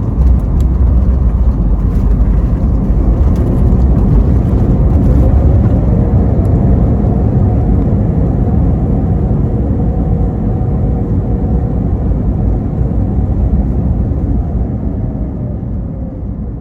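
Airbus A321neo landing roll heard inside the cabin: a heavy rumble of the wheels on the runway jumps up at the start. An engine whine rises a few seconds in, holds, then falls away as reverse thrust spools up and back down. The noise eases near the end as the jet slows.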